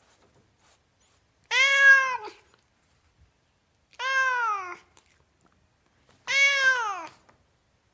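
Domestic cat meowing three times, a little over two seconds apart; each meow lasts under a second and drops in pitch at the end.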